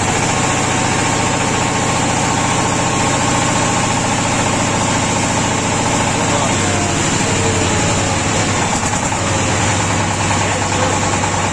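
Home-built mini tractor's 15-horsepower engine running steadily, its note shifting slightly a little past halfway.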